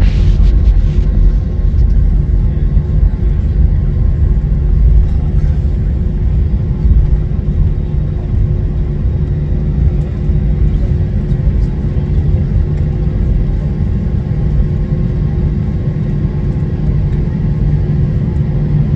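Steady, loud low engine rumble with a few constant whining tones over it, unchanging throughout, like a vehicle or aircraft engine running at a steady idle.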